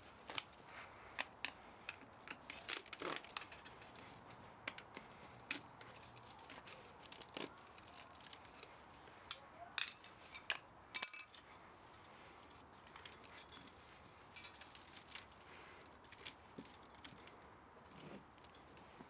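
Irregular sharp clicks, snaps and light metallic clinks of hand tools working on an electric motor being dismantled for scrap, with one sharper snap about halfway through.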